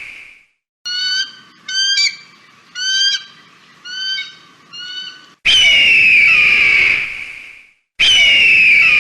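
Eagle calls: a run of six short, high chirping calls, then two long, loud screams that slide down in pitch. Each call starts and stops abruptly, with silent gaps between.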